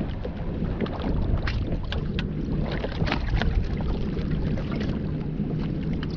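Bass boat on the water: a steady low rumble from the running outboard, with frequent splashes of water against the hull and wind buffeting the microphone.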